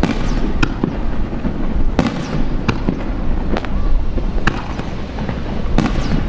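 Aerial fireworks bursting: about seven sharp bangs at irregular intervals, roughly one a second, over a continuous crackle and low rumble.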